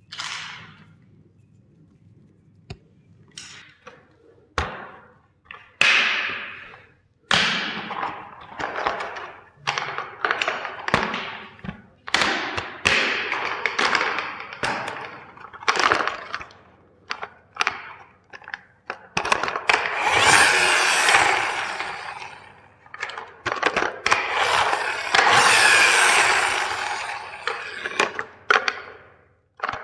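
Plastic toys cracking and snapping as they are crushed: a string of sharp cracks, with two longer stretches of dense crunching past the middle and near the end.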